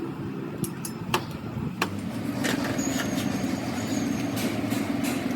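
A steady low hum, strengthening about two seconds in, with a few sharp clicks in the first half.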